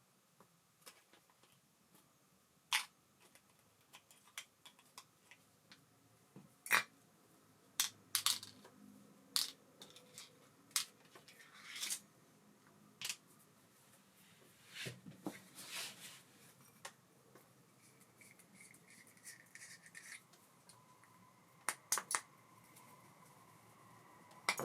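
Irregular sharp clicks and short scrapes of small metal parts of an Ambassadeur 5500C baitcasting reel being handled and worked on, with a faint steady whine coming in about three quarters through.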